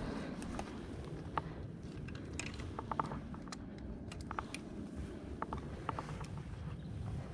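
Fishing reel being cranked, its gears whirring with scattered light clicks, over a low rumble of wind and water.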